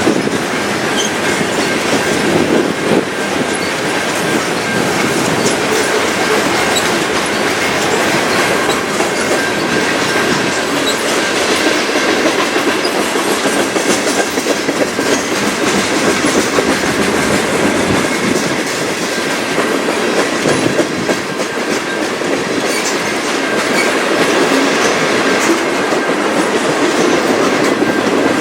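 Train cars rolling past close by, steel wheels clattering over rail joints, with a thin steady high tone running through the noise.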